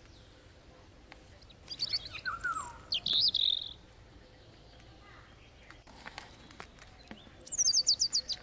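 Songbirds calling outdoors: a burst of high chirps about two seconds in, and near the end a quick run of high notes stepping down in pitch. A few soft taps can be heard in between.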